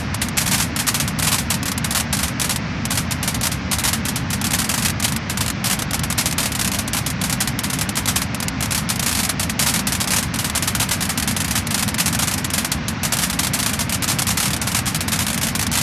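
Wood fire burning steadily in a fireplace, with dense, continuous crackling and popping over a low rumble of flame.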